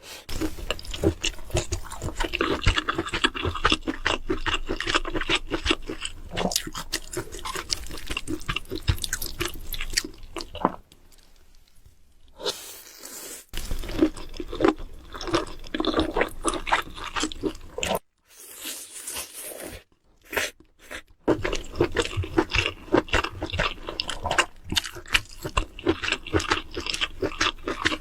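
Close-miked chewing and crunching of food, a dense run of crackly mouth sounds broken by a couple of short pauses.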